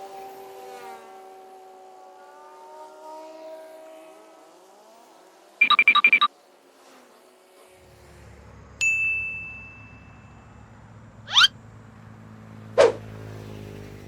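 A string of added editing sound effects: gliding tones at first, a short rapid chiming burst about six seconds in, a held beep that fades, then a quick rising whoosh and a quick falling whoosh near the end over a low steady hum.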